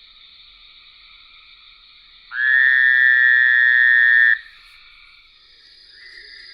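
Fowler's toad calling: a loud, short nasal buzz lasting about two seconds, starting a little over two seconds in. A fainter buzz follows near the end. A steady, fainter chorus of other calls runs underneath.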